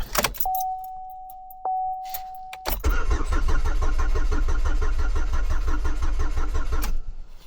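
A 2015 Chevrolet Equinox is being started. First a steady single-tone dash chime sounds, then the starter cranks the engine for about four seconds with an even, rapid rhythm. The engine does not catch, and the cranking stops near the end: a crank-no-start, which the owner blames on wiring chewed by rodents.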